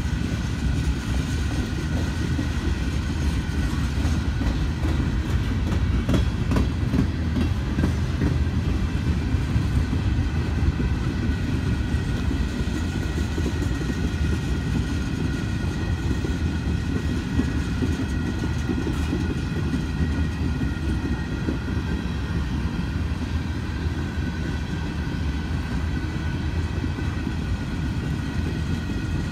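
Train rolling past on the rails: a steady low rumble of wheels on track, with a faint steady high whine over it and a few clicks around six to seven seconds in.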